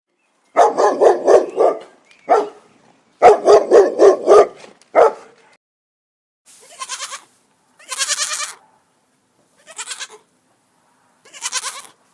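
Sheep or goats bleating: two long, wavering bleats with a short one after each, then, after a pause, four fainter, higher bleats over a background hiss.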